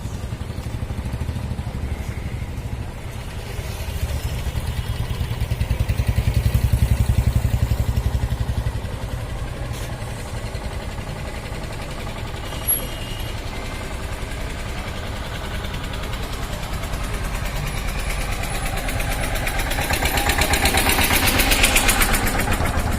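Diesel tractor engine running with a steady pulsing beat. It grows louder twice, once a few seconds in and again near the end.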